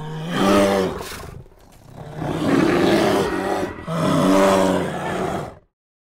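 An animal giving three loud, low-pitched calls in a row, each swelling and then fading, cut off sharply near the end.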